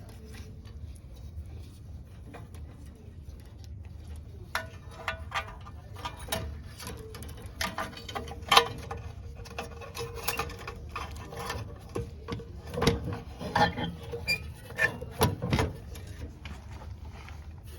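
Scattered clicks, taps and metallic clinks of hand tools and small metal parts being handled during work on a water heater's pilot assembly, over a steady low hum. The sharpest click comes about halfway through, and the knocks come more thickly a little later.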